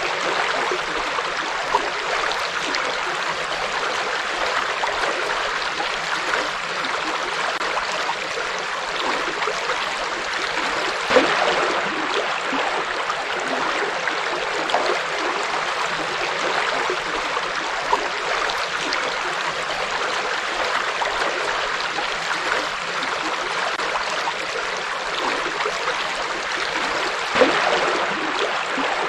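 River water flowing over rocks: a steady rushing and babbling, with occasional slightly louder splashes, one about eleven seconds in and another near the end.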